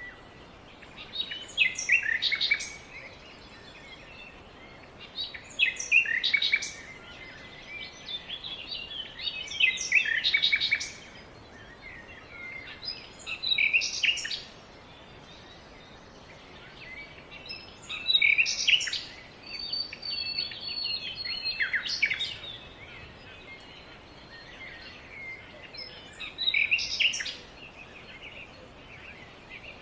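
A songbird singing short phrases of rapid high notes, repeated about every four seconds, over a steady background hiss.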